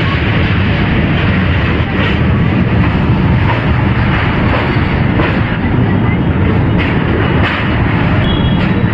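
Passenger express train running along the track: a steady, loud rumble of wheels and rushing air around the coach. A thin high squeal comes in near the end.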